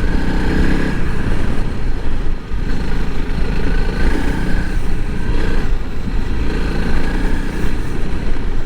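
Honda CRF300L's single-cylinder four-stroke engine running steadily under load as the motorcycle is ridden through soft sand.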